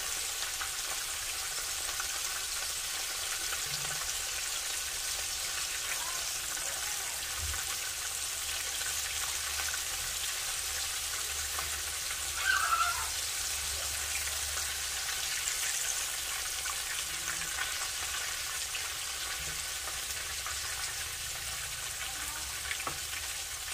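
Breaded pork neck bones frying in hot oil in a skillet turned down to medium heat, with a steady sizzle throughout. There is one brief, louder moment about halfway through as pieces are lifted out with a spatula.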